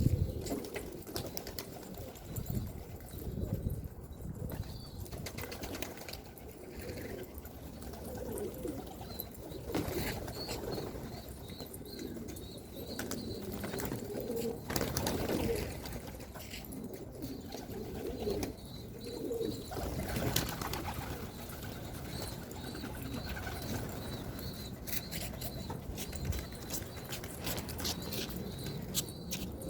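Pigeons cooing, low and repeated, with scattered short clicks. A thin, high repeated chirping joins from about a third of the way in.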